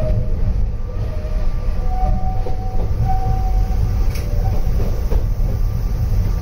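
Narrow-gauge Yokkaichi Asunarou Railway train running along the track, heard from inside the cab: a steady low rumble with a faint whine in the middle and a couple of sharp clicks from the wheels about four and five seconds in.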